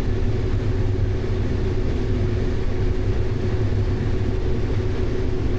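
Combine harvester running steadily while harvesting down corn: an even low drone with a constant hum.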